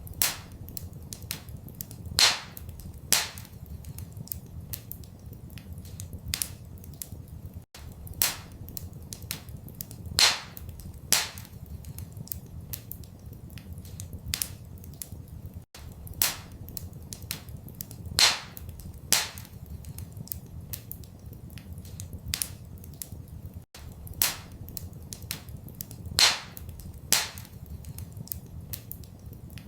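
Wood fire crackling in a fireplace: a constant run of small snaps and clicks with louder pops every few seconds, over a steady low rumble. The same pattern of pops repeats about every eight seconds, as in a looped recording.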